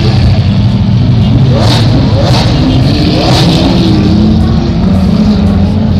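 Race car engine sound running hard and loud, with a few quick rising revs about two and three seconds in.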